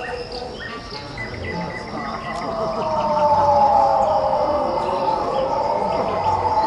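Birds chirping, with several tones sliding slowly downward in pitch.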